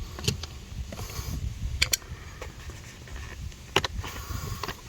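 A few sharp clicks and taps from a screwdriver working a door-panel screw under the door handle, over low handling rumble.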